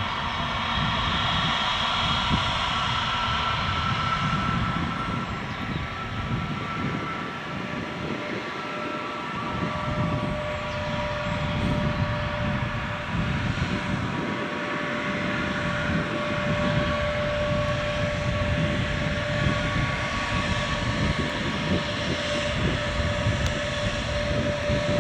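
Airbus A321neo's turbofan engines running at taxi power: a steady jet whine with humming tones over a low rumble. A new steady hum sets in about ten seconds in.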